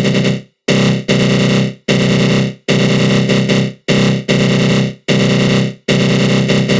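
Synthesized attack growl sound effect: a loud, harsh flanged synth growl that starts abruptly, fades out over about a second and repeats, six or so times in a row.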